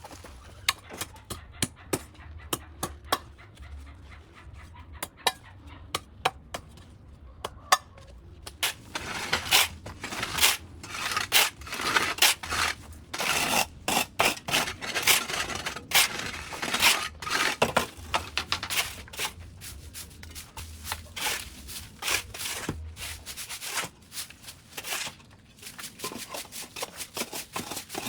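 Vines and brush being cut and pulled away by hand: many irregular sharp snaps and clicks with bursts of rustling and scraping, busiest in the middle.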